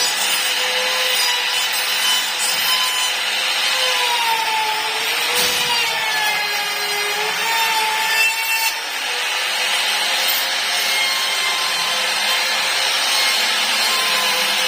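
Electric router whining steadily as it cuts a 15 mm-deep channel along a wooden board. Its motor pitch sags and wavers under load partway through, with a brief knock about five and a half seconds in.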